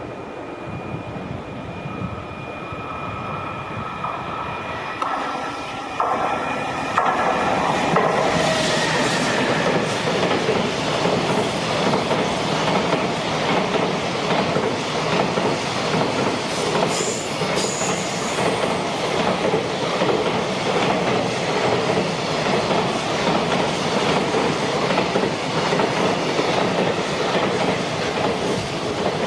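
A freight train approaches with a steady high whine. At about seven seconds in the electric locomotive passes close by, and then a long string of container wagons rolls past, loud and steady, with wheels clattering over the rail joints.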